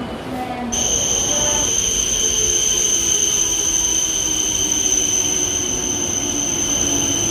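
E5 series Shinkansen train moving slowly along the platform: a steady, high-pitched squeal over running noise and a lower whine. The train sound starts suddenly less than a second in, after a brief murmur of voices.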